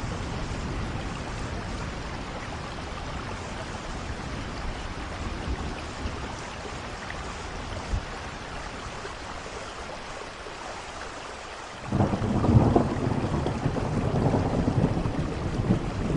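Steady rain falling, an even hiss. About twelve seconds in, a low rumble of thunder starts suddenly and grows louder.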